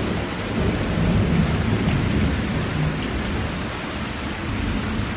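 Heavy rain pouring down with thunder rumbling, the rumble swelling about a second in and easing off.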